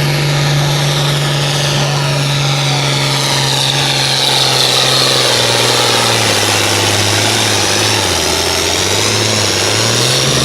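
Modified pulling tractor's engine running flat out under load, a loud, steady wail. About six seconds in, the pitch sags and wavers as the engine lugs down, then it climbs briefly before the sound drops off sharply at the very end.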